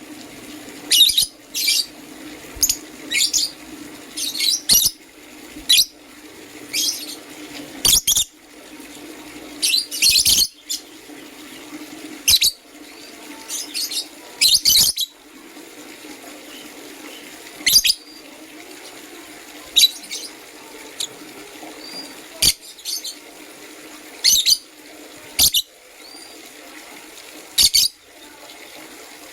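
Lovebirds chirping: short, sharp high-pitched calls coming irregularly, often in quick clusters of two or three, over a steady low hum.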